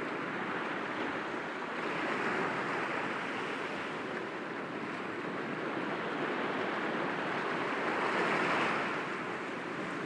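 Sea waves breaking gently against rocks: a steady wash of surf that swells twice, about two seconds in and again near the end.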